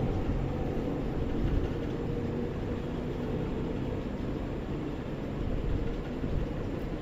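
Steady low rumbling background noise with no distinct calls or knocks.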